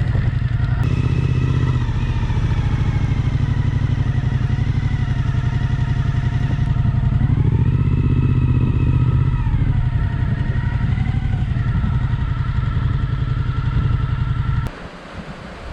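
Suzuki V-Strom 1050XT's V-twin engine idling. Its revs rise briefly about seven and a half seconds in and settle back about two seconds later, then the sound cuts off abruptly near the end.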